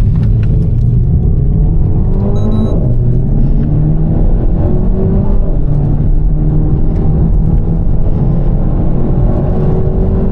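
Renault Mégane RS Trophy's 1.8 turbo four-cylinder pulling hard under full acceleration, the engine note climbing, dropping sharply on a quick upshift of the EDC dual-clutch gearbox about a quarter of the way in, then climbing again more slowly in the next gear.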